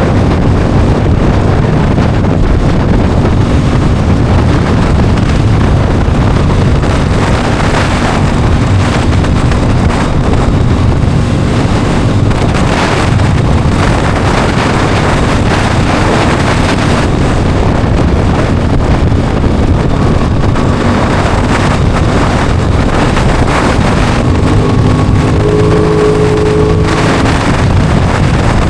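Heavy wind rush on the microphone while riding an Aprilia Tuono 660 motorcycle at speed, with its parallel-twin engine running underneath; near the end a steady engine tone comes through as the revs hold.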